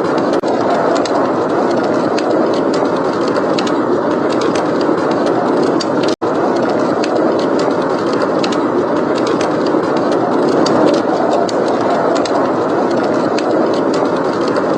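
Steady, heavy blizzard wind with a wood fire crackling over it in frequent small pops. The sound drops out for an instant about six seconds in.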